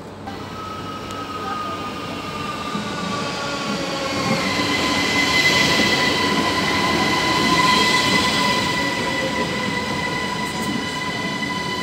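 ÖBB Cityjet electric multiple unit running into the platform, its rolling noise growing louder as it comes alongside, with a high whine that sinks slightly in pitch.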